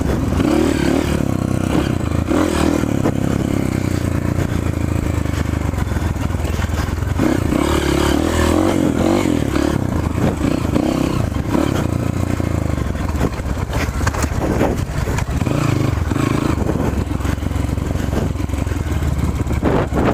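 Off-road trail motorcycle engine running, its pitch rising and falling as the throttle is opened and eased, with scattered knocks.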